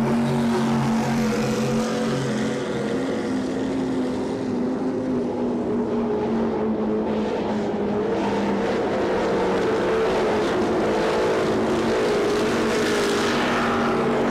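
Offshore race boat engines running hard at speed: a loud, steady drone whose pitch wavers slightly.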